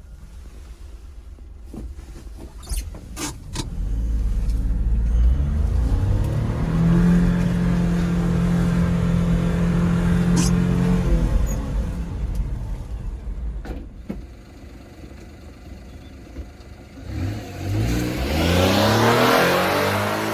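A 1996 Daihatsu Hijet kei truck's small three-cylinder engine pulling away and running at a steady pitch, easing off, then revving up again near the end. A few sharp clicks come early on and about halfway through.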